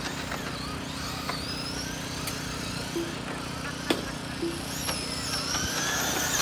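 Several RC race trucks running on a track: their electric motors whine high, overlapping and rising and falling in pitch as they speed up and slow down, with a few sharp clicks and knocks, the loudest about four seconds in.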